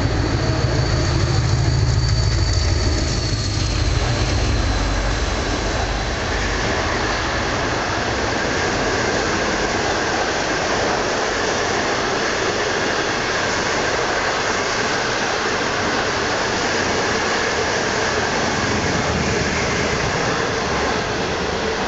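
Express passenger train passing at speed: a deep rumble from the locomotive in the first four seconds or so, then a steady rush of wheel-and-rail noise as the coaches go by.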